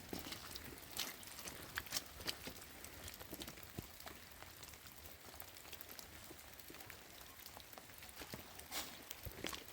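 Rain falling, with irregular drops and drips striking surfaces, clustered more densely a second or two in and again near the end.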